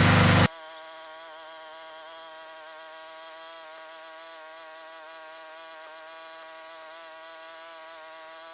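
Lawnmower engine running, cut off abruptly about half a second in; then a steady, thin buzzing drone with a slight waver in pitch.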